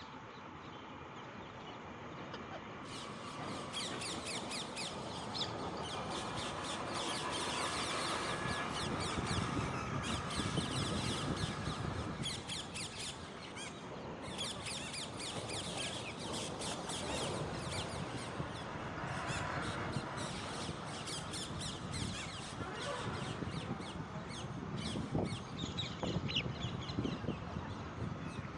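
Alexandrine parakeets squawking and chattering, a dense din of many rapid calls that starts abruptly about three seconds in.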